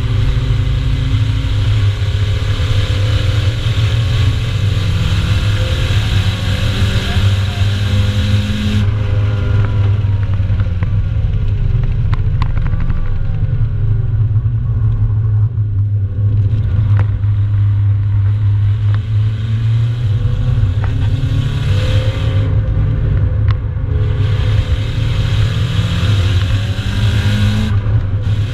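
Nissan 200SX's turbocharged four-cylinder engine heard from inside the cabin at speed on track: the revs rise under throttle, then drop away about nine seconds in as the throttle is lifted, and build again near the end.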